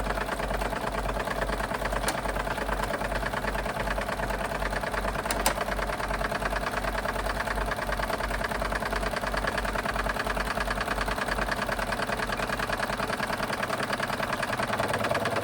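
Wilesco D32 model steam engine running at a steady speed, with a fast, even beat. A low pulsing hum underneath dies away near the end.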